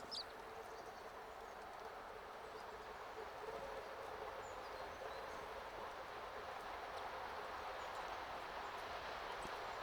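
Steady outdoor background hiss with small garden birds chirping: one short, sharp call right at the start and a few faint high chirps around four seconds in.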